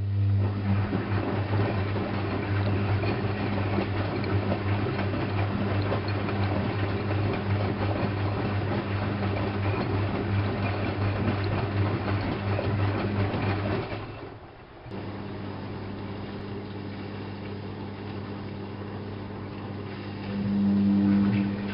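Washing machine drain pump switching on and pumping water out: a steady, rather loud hum with rushing water. It drops out briefly about two-thirds of the way through, runs on more quietly and swells again near the end.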